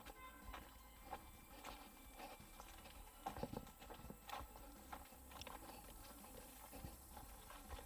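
Faint footsteps crunching along a dirt and leaf trail, an irregular series of soft steps and small crackles.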